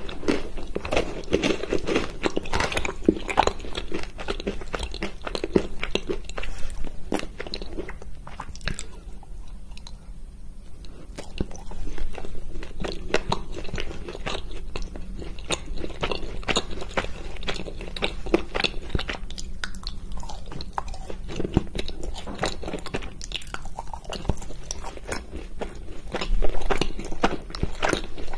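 A person biting and chewing pieces of chocolate, with many small crunching, crackling clicks and a quieter lull about a third of the way through.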